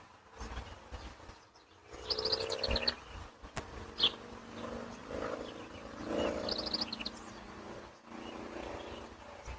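Animal sounds: low wavering calls, with two quick runs of high chirps, about 2 seconds and 6 seconds in.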